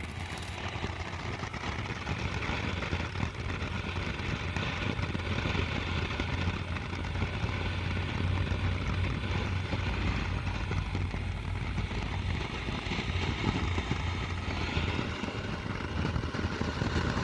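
Ground firework fountain spraying sparks: a steady rushing hiss that builds over the first couple of seconds and then holds.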